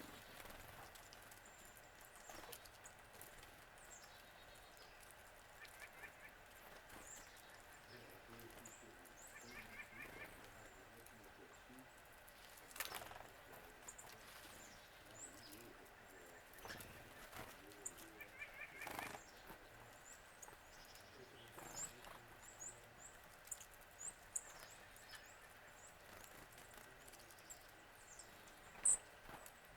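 Faint calls from several wild birds: brief high chirps, and a quick trill of a few notes that repeats every several seconds.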